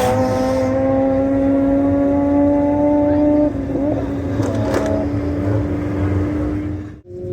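Rotary-engined car on a drag run, its engine note climbing slowly in pitch, then dropping in loudness about three and a half seconds in and holding steady. The sound cuts off suddenly near the end.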